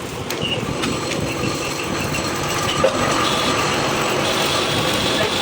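Workshop machinery running with a steady mechanical rumble, a few light ticks early and one sharp knock about three seconds in, after which it runs a little louder with a thin high whine.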